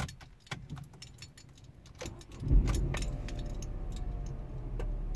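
Car keys jingling and clicking at the ignition, then the car's engine starts about two and a half seconds in and settles into a steady low idle.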